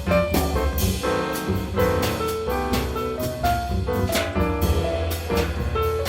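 Live jazz combo playing an instrumental passage: piano over a strong bass line, with drum kit strikes keeping time.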